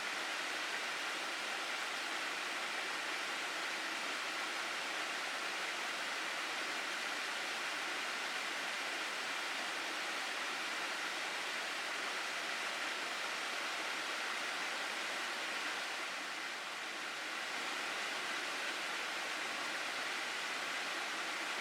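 Mountain stream rushing over rocks in a gorge: a steady, even wash of water that eases slightly for a moment near the end.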